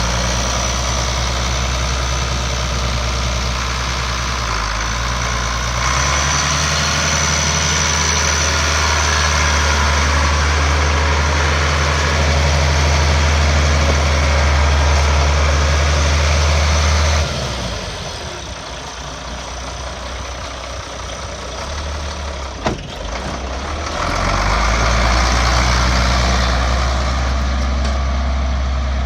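International Harvester 966 tractor engine running steadily; it picks up a few seconds in. It drops back abruptly to a quieter, lower run past the midpoint, with one sharp click in that stretch, then picks up again near the end.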